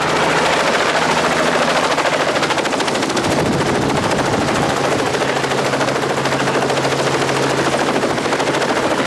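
Helicopter running, with a steady, fast, even chop from the rotor over the engine's noise.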